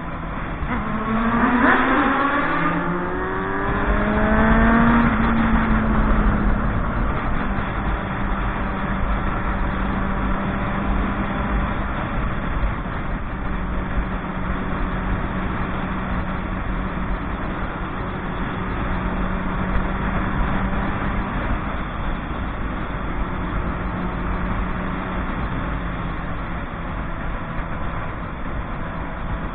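Motorcycle engine accelerating hard in the first few seconds, its pitch climbing in two quick rises, then running at a steady speed while riding.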